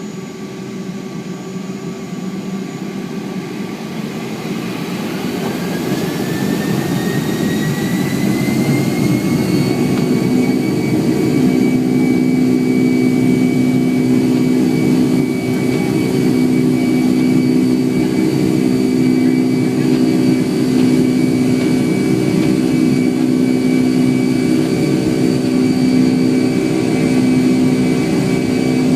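Boeing 757-200's Pratt & Whitney PW2037 turbofans spooling up to takeoff thrust: a rising whine and swelling rumble over the first ten seconds or so, then a steady loud whine and rumble.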